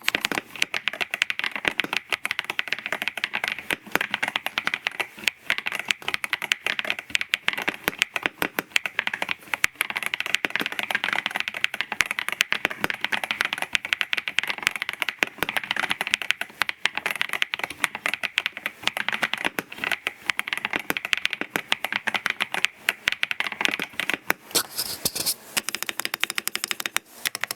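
NAEessential Vortex 650 mechanical keyboard with Dukharo linear switches being typed on quickly and continuously, a dense stream of sharp keystroke clacks several per second.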